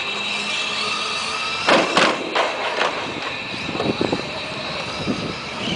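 Radio-controlled short-course trucks racing: a steady high whine from their motors, with a few sharp knocks about two seconds in.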